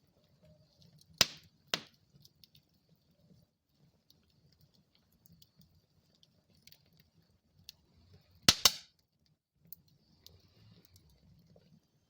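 Wood fire burning in a fireplace: a faint low rumble of flames with small crackles, and sharp pops of burning wood, two about a second in and a quick pair a little after eight seconds.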